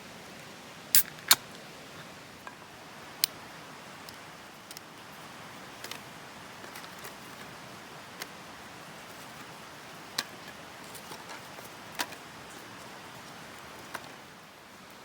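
Scattered sharp clicks and clinks, the loudest two close together about a second in and a few fainter ones later, over a steady rushing hiss.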